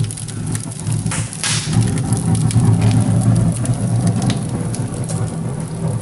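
Cast-iron fireplace firebox doors opened with a short metallic scrape about a second in. The wood fire inside then draws with a steady low rumble and scattered crackles, swelling for a few seconds.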